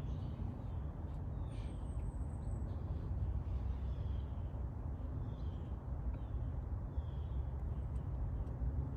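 Outdoor ambience: a steady low rumble, with faint short high bird chirps repeating about once a second.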